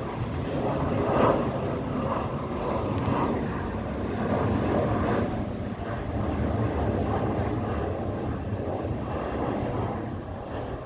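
Jet engine noise from a Boeing 737-800 airliner's CFM56-7B turbofans: a steady rushing noise, swelling and easing a little.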